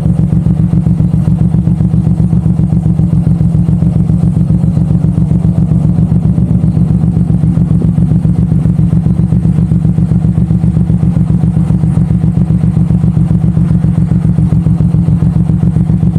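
Suzuki M109R's large V-twin engine running at a steady, even pulse that neither rises nor falls.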